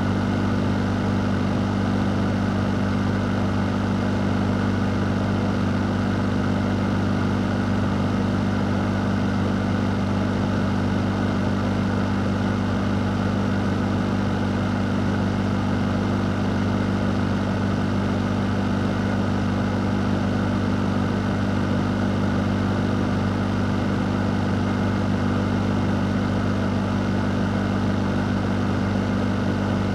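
Fan motor running steadily: a constant low electrical hum under an even rush of moving air, with no change in speed or level.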